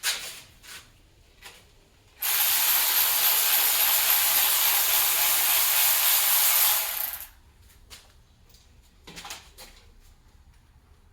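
A steady spraying hiss, about five seconds long, starting about two seconds in and stopping abruptly. Short tool clicks come just before it, and a light knock comes near the end.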